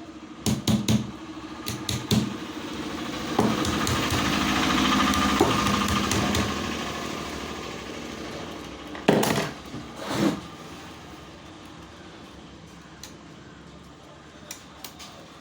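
Bosch angle grinder motor running for about three seconds, then fading gradually as it winds down. Knocks and clatter of the tool being handled come before and after.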